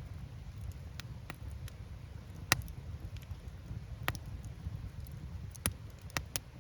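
Wood campfire burning, with logs crackling and popping in scattered sharp snaps, the loudest about two and a half seconds in, over a steady low rumble of the flames.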